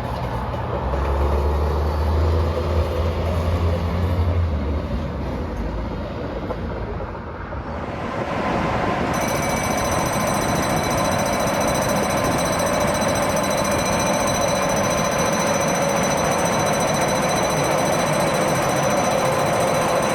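A rail track machine's engine runs with a deep steady drone that fades after about five seconds. After a cut about eight seconds in, Rc6 electric locomotives give a steady loud rumble with several thin, steady high-pitched whines over it.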